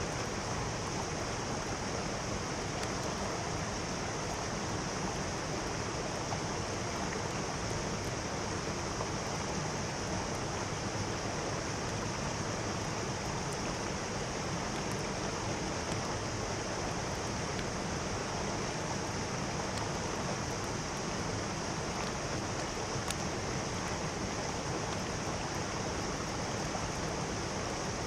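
Mountain stream water flowing and rushing steadily over rocks.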